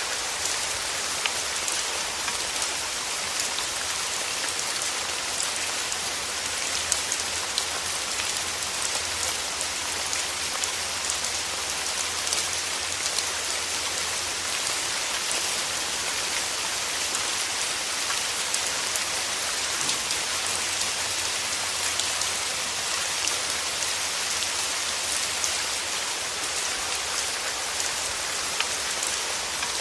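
Steady rain falling on a surface: a continuous hiss with many small drop ticks scattered through it.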